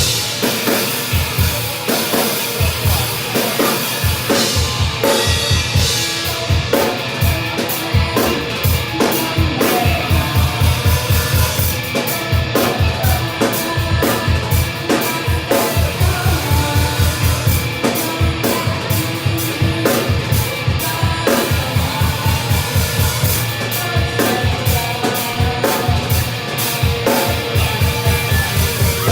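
Drum kit played hard and fast, with rapid bass-drum strokes, snare hits and cymbals, over backing music with held pitched tones.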